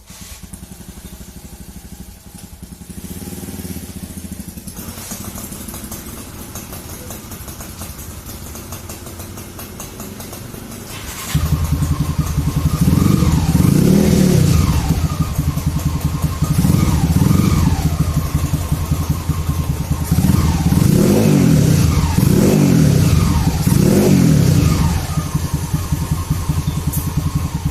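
Motorcycle engine exhaust through an aftermarket CTS muffler, running at a low steady idle and then, about 11 seconds in, much louder, with a series of quick revs that rise and fall before settling back to idle near the end.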